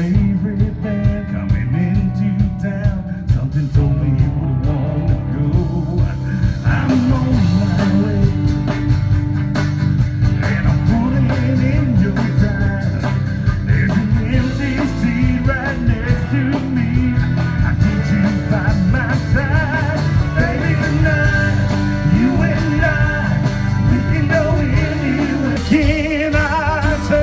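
Live band playing a blues-soul song.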